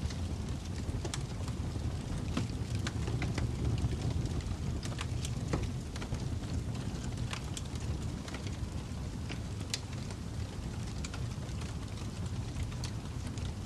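Wood fire crackling: irregular sharp pops and snaps over a steady low roar.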